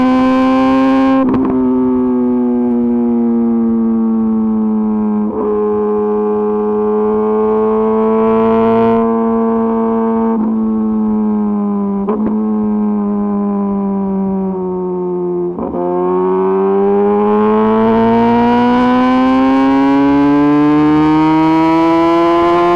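Kawasaki ZX-10RR's inline-four engine with an Arrow Pro-Race exhaust, running hard under way at high revs. Its pitch sags slowly, recovers, sags again and then climbs steadily over the last few seconds, with a few brief breaks along the way.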